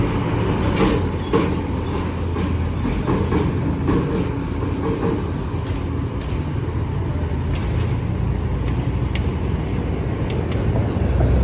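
Heavy container trucks' diesel engines running: a steady low rumble, with scattered light clicks and knocks over it.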